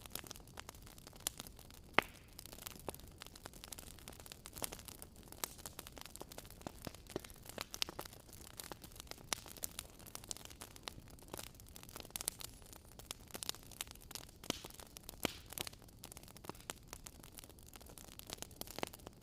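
Fire in a fireplace crackling: irregular sharp pops and snaps over a faint steady hiss.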